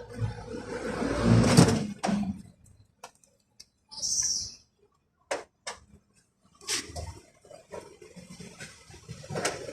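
Hand-work noises on a car door: a loud scraping, rubbing stretch at the start, a short hiss about four seconds in, then scattered sharp clicks and knocks of tools and metal parts being handled.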